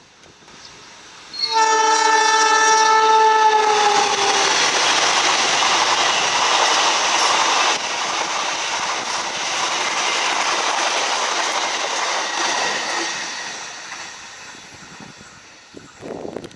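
Passing train: the locomotive's horn sounds one chord for about three seconds, its pitch dropping as it goes by. Then comes the loud rush and clatter of the train running past, which fades away near the end.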